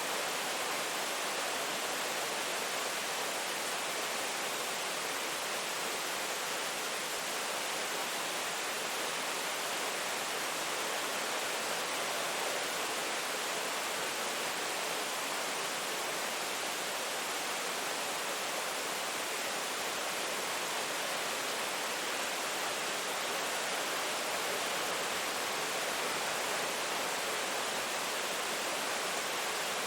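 Steady, even rain noise with no individual drops or thunder standing out.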